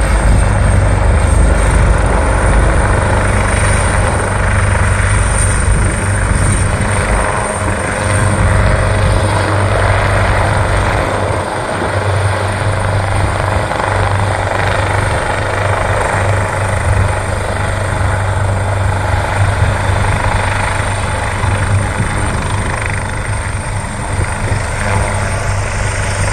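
Helicopter running, a loud, steady rotor and engine noise with a deep hum underneath and a thin, high whine on top.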